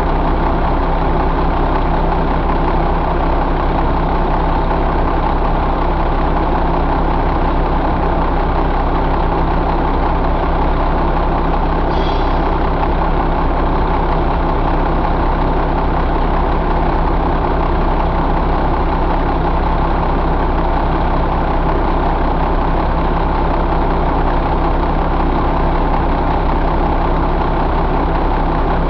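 2005 Mack E7 inline-six diesel engine idling steadily.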